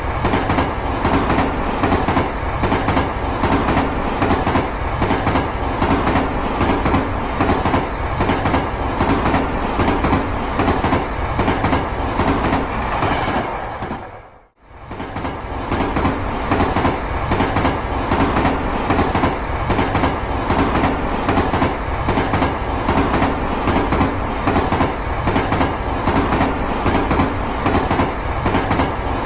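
Two battery-powered Plarail EF65 toy locomotives double-heading a 15-car freight train on plastic track: motors whirring and the cars rattling and clicking over the track joints. The sound fades out and back in about halfway through.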